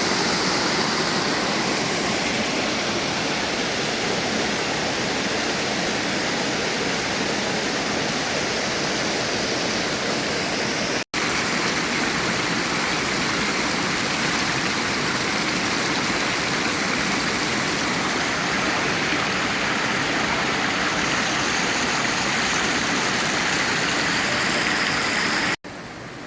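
Steady rush of a large waterfall, the Lushki falls with its 75-metre main drop, water pouring and splashing. The sound cuts out for an instant twice, about eleven seconds in and near the end.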